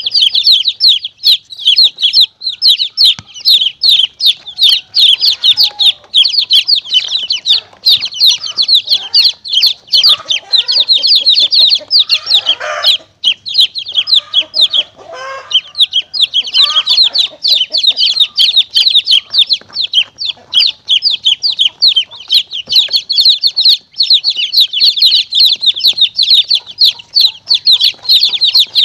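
A flock of baby chicks peeping rapidly and without pause, high-pitched and loud, with a few lower-pitched calls around the middle: a chick-distress recording used as a predator lure for monitor lizards and mongooses.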